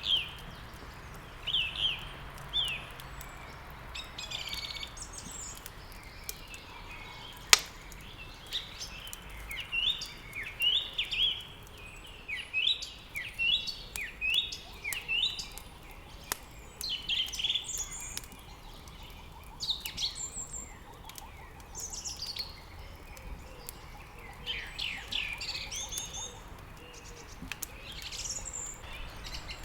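Small songbirds chirping and singing in quick repeated phrases, over the scattered crackle of burning wood in a fireplace, with one sharp pop about a quarter of the way in.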